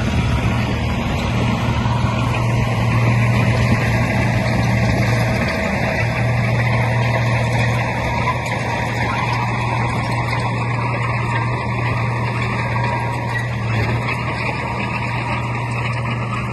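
Heavy diesel earthmoving machinery running steadily under load, a constant low engine drone over a noisy mechanical rumble.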